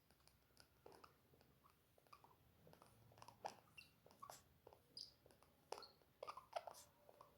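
Pet Indian ringneck parrot making faint, scattered clicks and brief soft squeaks, busier from about three seconds in.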